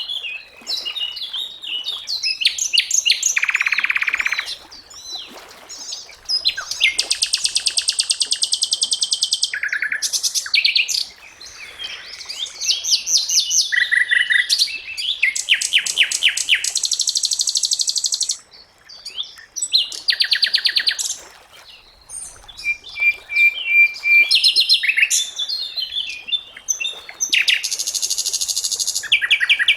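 Sikatan londo songbird singing a varied song: fast rattling trills, buzzy phrases and short steady whistles, in bursts of one to three seconds with brief pauses between them.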